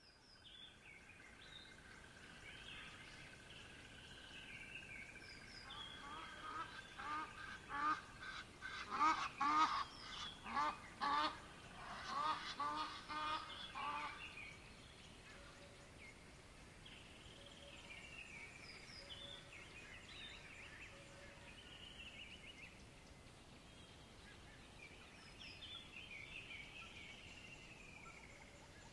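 Birds calling: short falling calls come and go throughout, with a loud run of rapidly repeated calls from about six to fourteen seconds in.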